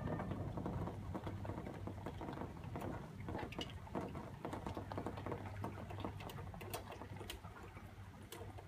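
Rain pattering in a thunderstorm, irregular drops tapping close by, over a steady low hum.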